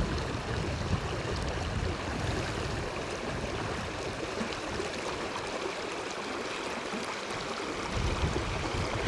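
River water flowing steadily, with gusts of strong wind buffeting the microphone in low rumbles near the start and again near the end.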